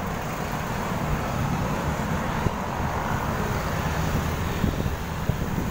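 Wind buffeting the camera microphone while riding a bicycle, a steady low rumble with faint road noise.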